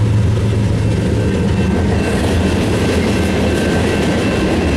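Freight train rolling past, its wheels rumbling on the rails over a steady low diesel drone, with faint thin high-pitched tones from the wheels.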